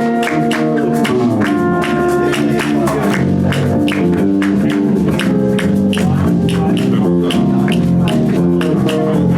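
Live band playing: guitar and bass over drums keeping a steady beat of about three to four strokes a second.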